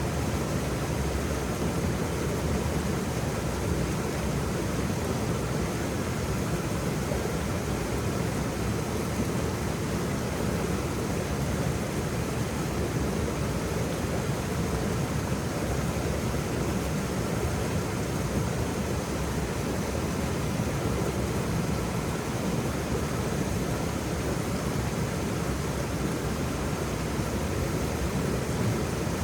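Waterfall: a steady, even rush of falling water, deepest in the low end, with no breaks or separate events.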